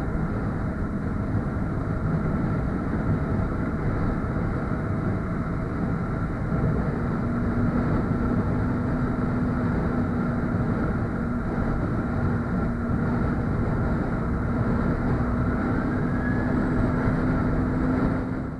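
Motorcycle engine running at a steady cruise under heavy wind and road noise; about a third of the way in a steady engine tone comes through and slowly rises a little in pitch.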